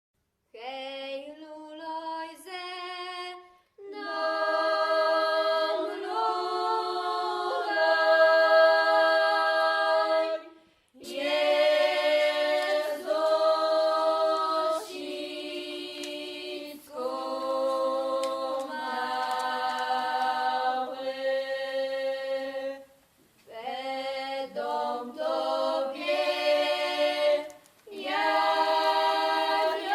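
Choir singing unaccompanied, in slow phrases of held chords separated by short pauses.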